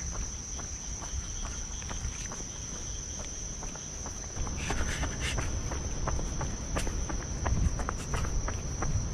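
Insects trilling on one steady high tone, over a low wind rumble on the microphone. Short clicks and crunches grow denser and louder about halfway through.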